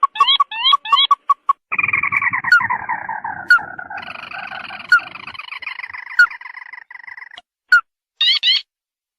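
Recorded lure calls of the tikusan crake: short upswept notes at the start, then from about two seconds in a long chattering call that falls in pitch, with sharp ticks about every second, stopping abruptly about seven seconds in. A short burst of upswept notes follows near the end.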